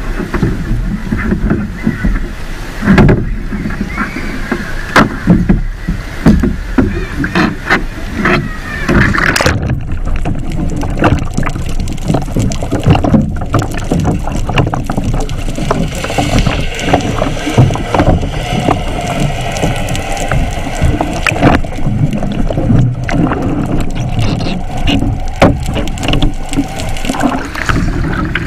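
Water splashing and sloshing around a sea kayak on the move, with irregular knocks and a steady rush of noise.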